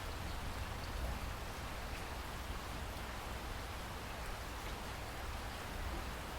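Steady rain falling, an even hiss with a few faint drop ticks and a low rumble underneath.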